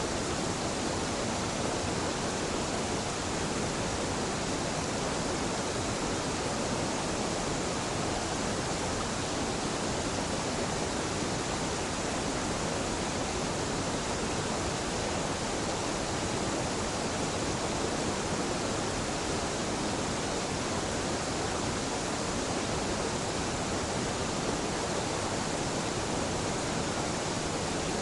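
A waterfall's falling water making a steady, even rush that does not change.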